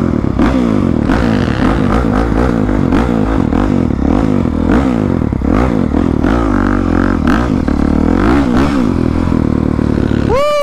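Dirt bike engine revving up and down as it rides, its pitch climbing and dropping again and again. Near the end there is one quick, sharp rev up and back down.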